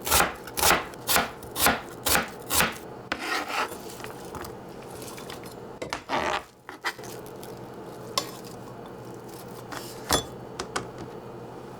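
Kitchen knife chopping on a cutting board, about two even strokes a second, stopping about two and a half seconds in. A few softer cuts follow, then a scrape across the board about six seconds in and a few light clicks near the end.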